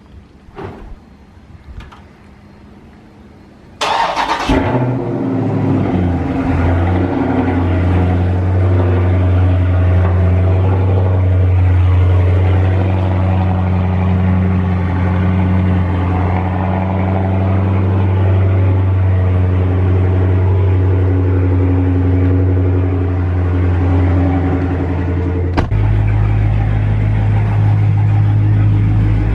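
Dodge Charger Scat Pack's 392 HEMI V8 with its mufflers deleted, starting up about four seconds in with a loud flare of revs and settling into a steady, deep, loud idle. A few faint clicks come before the start, and near the end a click is followed by an even deeper note.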